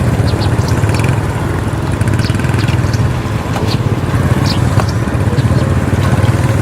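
A small engine running steadily at a low, even rumble, with a few faint short high chirps or clicks over it.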